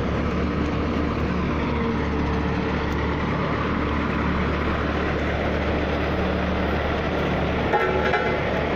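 Heavy road-construction machine's engine running steadily, with a brief clatter near the end.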